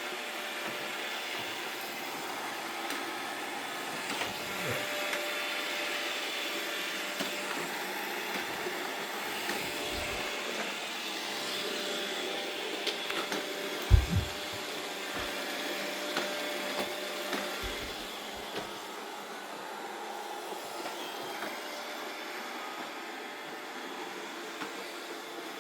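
Robot vacuum cleaner running with a steady whir of its motor and brushes, with a few low knocks and one louder thump about fourteen seconds in.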